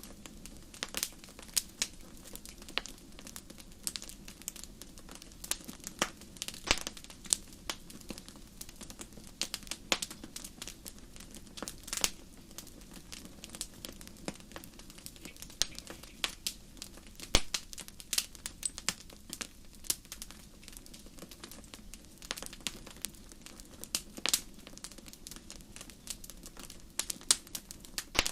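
Wood fire burning in a fireplace, crackling with irregular sharp snaps and a few louder pops over a soft steady hiss of flame.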